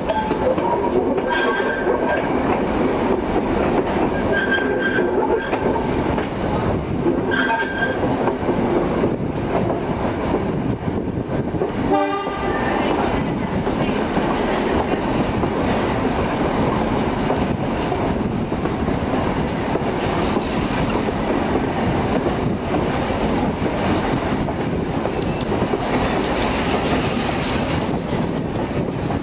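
A diesel-hauled heritage train running along the track, heard from on board: a steady rumble and rattle of wheels and carriages. Short high squeals come three times in the first eight seconds.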